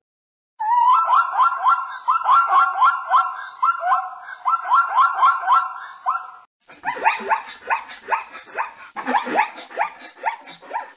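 Zebra calling: a long run of high yelping barks, about three or four a second, rising and falling in pitch. After a brief break a second, rougher run of barks follows.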